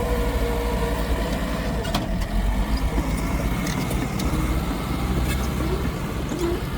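Heavy diesel earthmoving machinery running with a steady deep rumble. A thin whine fades out in the first second, and a few sharp clicks or clanks come through.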